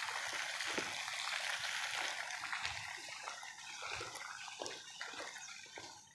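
Water trickling and splashing, with many small drips and clicks, fading away toward the end.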